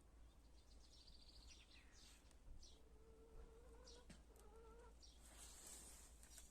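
Chickens calling faintly: two drawn-out, level calls about halfway through, with a few faint short chirps around them.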